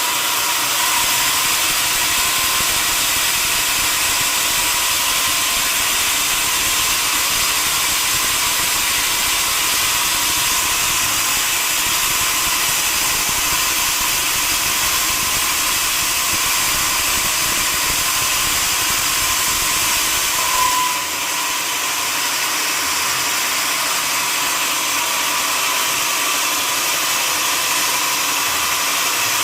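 Sawmill saw machinery running steadily, a loud continuous hiss with a high whine. About two-thirds of the way through there is a brief blip, and the low rumble underneath drops away.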